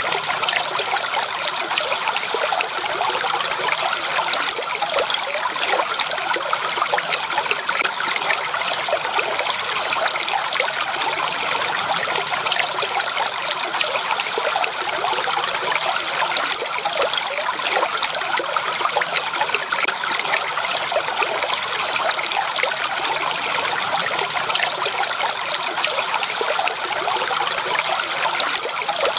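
A small stream of running water trickling and burbling steadily over stones.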